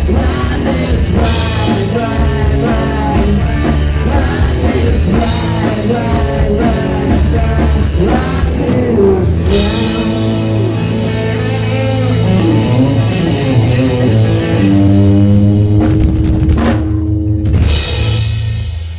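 Live rock band playing the instrumental ending of a song: drum kit and electric guitar drive a steady beat, then from about halfway the band holds long chords, with sharp hits near the end before the sound dies away.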